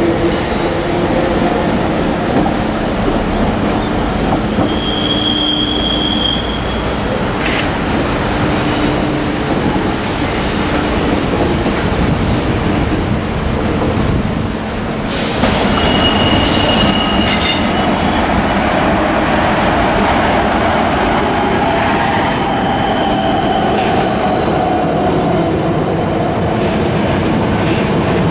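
Suburban electric trains (Z 6400 units, then VB2N double-deck coaches) rolling slowly through the station throat. The wheels clatter over the track, with several short high-pitched wheel squeals.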